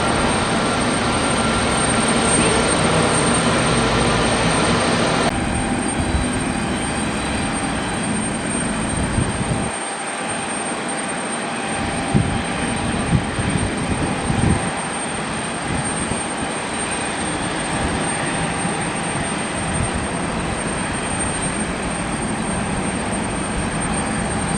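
Jet airliner engine noise: a loud steady roar that drops off suddenly about five seconds in, leaving a quieter steady rumble with a few low thumps.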